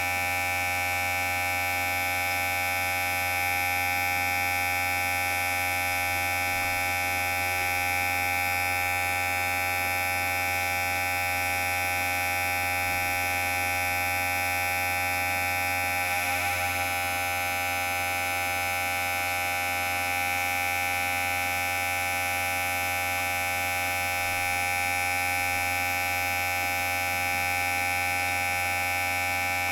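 Electric hair clipper running with a steady buzz, its pitch shifting slightly about halfway through.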